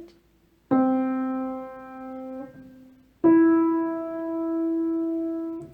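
Piano playing middle C and then the E above it, a major third (do to mi), each note struck once and left to ring out for about two seconds.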